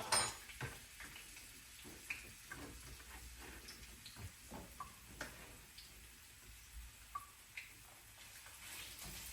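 Chopped onions going into a frying pan on low heat: a sharp tap right at the start, then scattered light clicks and pops.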